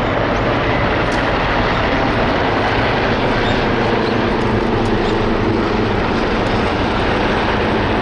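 Steady, loud engine drone with a low hum, running evenly without change.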